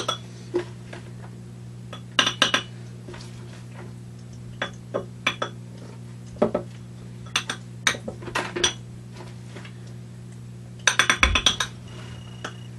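Light clinks and taps of small hard objects being handled, coming in irregular clusters with a quick rattling run about eleven seconds in, over a steady low hum.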